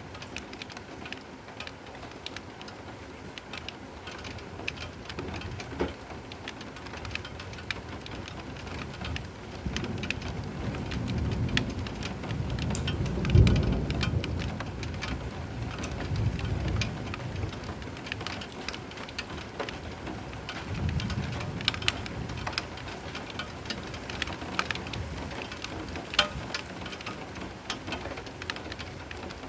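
Steady rain with distinct drops pattering on a surface. Rolling thunder builds from about nine seconds in, peaks in a sharp loud crack-like surge around the middle, and rumbles away, with a fainter rumble a little later.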